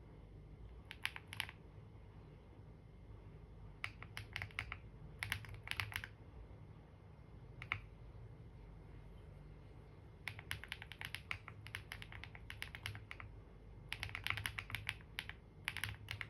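Computer keyboard typing in short bursts of rapid keystrokes separated by pauses, with a single lone keystroke in the middle.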